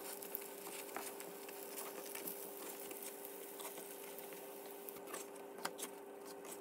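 Frying syrniki (cottage-cheese pancakes) faintly sizzling and crackling in sunflower oil in a frying pan, with a few ticks of a spatula against the pan about five to six seconds in and a faint steady hum underneath.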